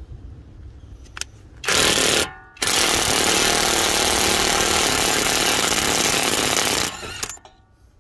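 Impact wrench hammering in two bursts, a short one and then a longer run of about four seconds, as it works fasteners during a wheel bearing replacement.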